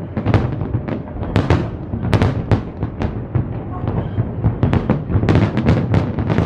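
Fireworks display: a rapid, irregular string of shell bursts, several bangs a second, over a continuous low rumble of overlapping explosions and echoes.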